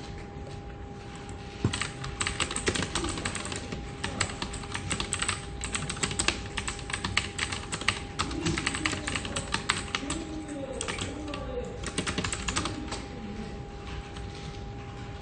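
Rapid typing on a computer keyboard: a dense run of key clicks that starts a couple of seconds in, pauses briefly now and then, and stops near the end.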